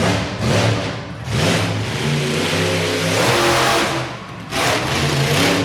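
Monster truck engine revving hard in repeated surges, the longest lasting about three seconds from a second in.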